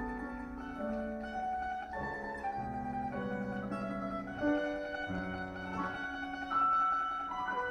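Domra playing a slow lyrical melody of held, rapidly pulsing notes over lower accompanying notes.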